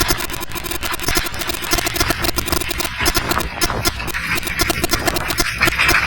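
A vehicle engine running steadily with a fast, even firing rhythm. A hissing noise swells near the end.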